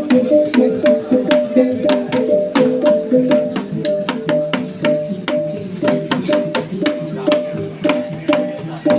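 Traditional Sumbanese gongs and drum playing together: several tuned gongs ring out at different pitches in an interlocking pattern over quick, steady drum strikes.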